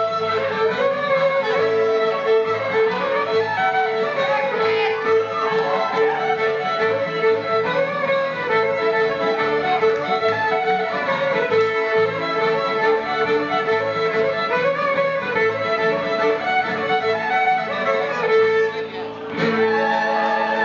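Fiddle-led folk dance music playing a barn-dance tune at a steady level, with a steady held note underneath the moving melody. The music breaks off briefly near the end and then starts again.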